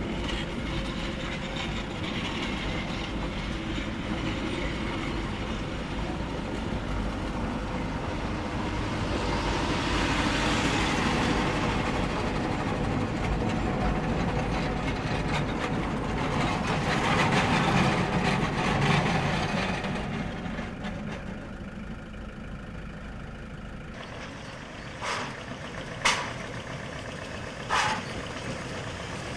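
Narrow-gauge steam train rolling past close by, a steady rumble of the locomotive and wagons that swells twice as the cars go by, heard from inside a car. It fades away, and near the end come three short sharp sounds a second or two apart.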